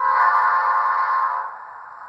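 Recorded sound of an F40PH locomotive's multi-chime air horn played by an ESU LokSound 5 sound decoder, a steady chord that sounds loudly for about a second and a half, then drops to a quieter, hazier tail.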